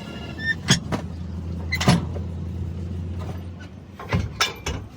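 Sharp metallic clanks and knocks from truck repair work: one near the start, one around two seconds in, and three in quick succession near the end, over a steady low engine hum.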